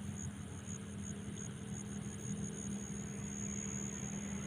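A high-pitched insect trill pulsing about four times a second and running continuous near the end, over a steady low hum.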